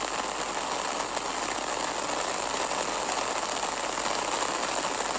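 Heavy thunderstorm rain pelting down steadily, a dense even hiss.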